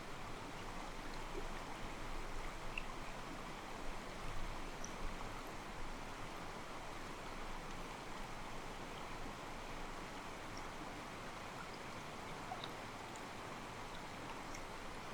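Mountain stream flowing steadily, water sloshing and babbling over rocks, with a few faint, brief high chirps.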